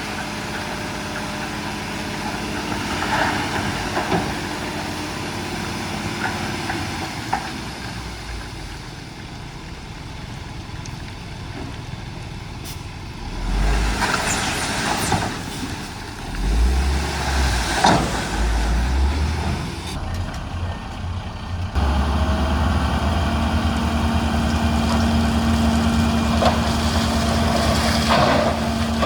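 Heavy diesel engines of a dump truck and bulldozer running, with several low surges and short hissing or clattering bursts around the middle. About three-quarters of the way through, the engine gets louder and then holds steady.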